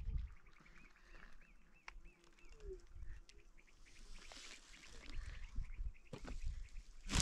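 A small bird chirping in a quick, steady series, a few chirps a second, with a few light clicks and some rustling later on.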